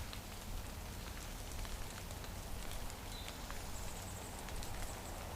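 Light rain pattering steadily, with scattered faint drip ticks.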